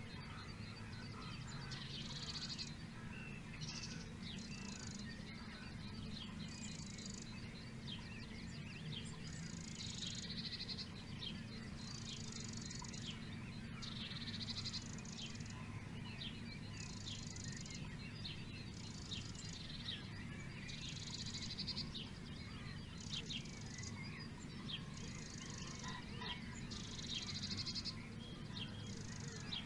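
Songbirds singing: one bird repeats a short, high, trilled phrase about every two seconds, while others give many brief chirps. A steady low hum runs underneath.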